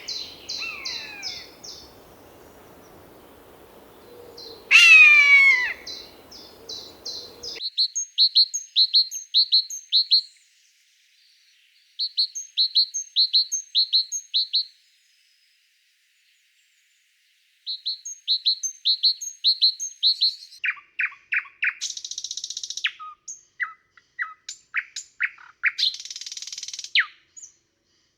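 Wild birds calling in several separate recordings, one after another. First a loud call that sweeps downward, with a fast run of short notes. Then phrases of short, high, repeated notes with pauses between them, and after that sharper chirps that drop in pitch.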